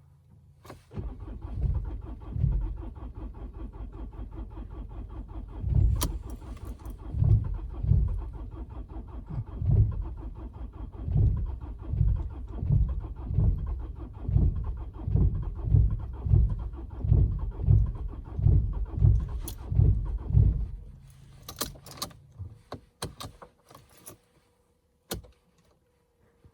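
Mercedes-Benz C220 CDI's four-cylinder diesel engine cranking on the starter for about twenty seconds in −15 °C cold, with an uneven pulsing rhythm, then stopping without settling into an idle: a hard cold start. A few sharp clicks follow near the end.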